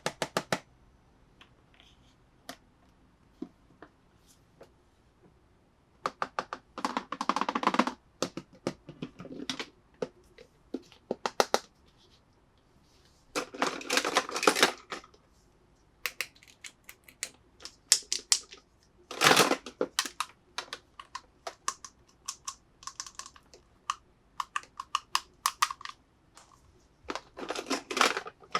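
Hands handling toy packaging: scattered quick clicks and taps, with a few short bursts of crinkling and rustling, the loudest about 7, 14, 19 and 27 seconds in.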